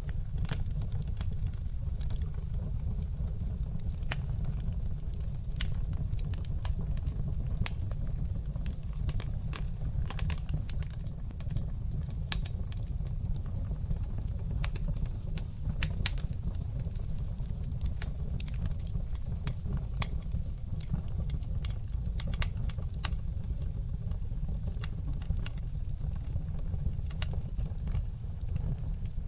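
Wood fire burning in a fireplace: a steady low rumble of flames under frequent, irregular crackles and sharp pops.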